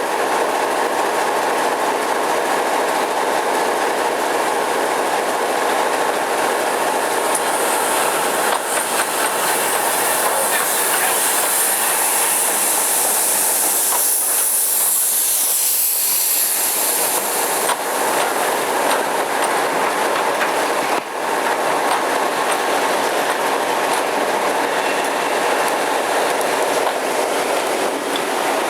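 Steam train behind LSWR T9 class 4-4-0 locomotive 30120 rolling into a station, its wheels clattering over the rail joints. A high hiss rises in the middle and then fades, sweeping down in pitch.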